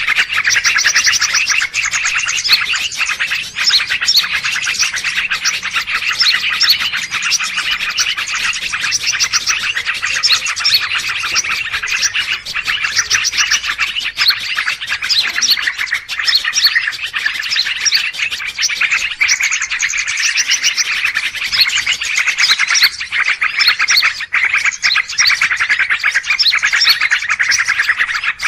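A dense, noisy chorus of many small birds chirping and twittering at once, rapid overlapping calls without a break: a bird-luring (pikat) recording of agitated birds.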